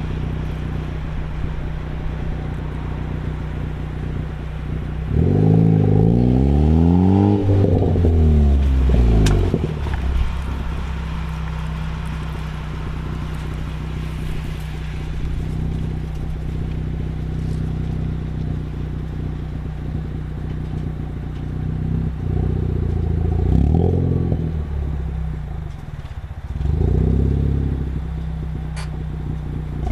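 Ford Focus ST with an MBRP aftermarket exhaust idling steadily and revved three times: a long rev rising and falling about five seconds in, then two shorter blips near the end.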